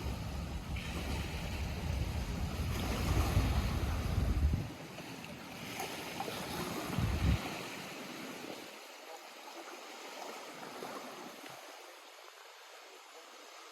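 Lake water lapping and washing against the shore, with gusts of wind buffeting the microphone as a low rumble. The rumble cuts out about a third of the way in, returns briefly, then dies away, leaving the softer wash of the water.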